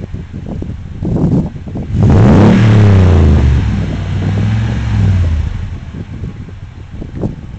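Toyota Tundra engine through a TRD dual exhaust being revved in place. There is a short blip about a second in, then a bigger rev about two seconds in that climbs and falls away, and the engine settles back to idle after about five seconds.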